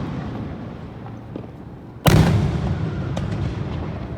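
Aerial firework shells bursting: the rumble of one burst dies away, then a loud boom about two seconds in rolls on with a long echoing rumble and a few faint crackles.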